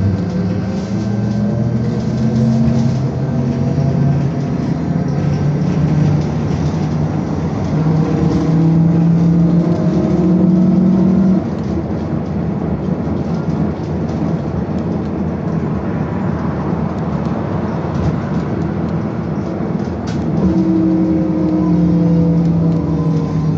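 Belkommunmash BKM-221 trolleybus under way, heard from inside: the electric traction drive whines in several pitched tones that rise with acceleration, cut off abruptly about eleven seconds in, and rise again near the end, over steady road and running noise.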